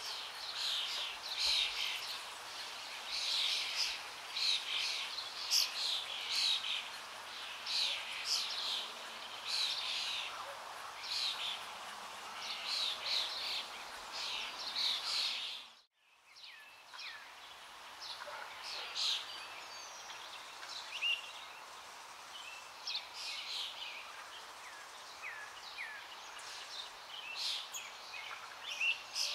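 Many birds chirping, a dense run of short, high calls repeating. About halfway through the sound cuts out for a moment, then the chirping resumes more sparsely with a few rising whistled notes.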